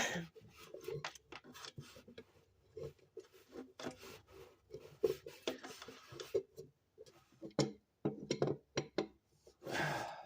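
Hand tools working on car parts: short, irregular scrapes, clicks and light knocks, with a louder scrape near the end.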